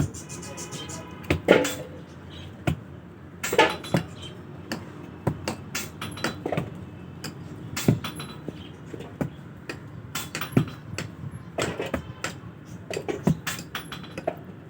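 Irregular knocks and bangs from home repair work, some in quick clusters, over a steady low background hum.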